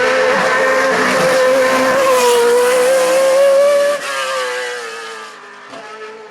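Hill-climb race car engine held at high revs as it passes, with a steady, slightly wavering note; about four seconds in the pitch drops and the sound fades away.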